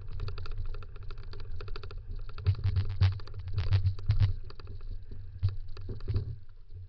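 Dog-drawn kick scooter rolling over a rough dirt trail: a low rumble with rapid rattling clicks, with a few harder knocks partway through.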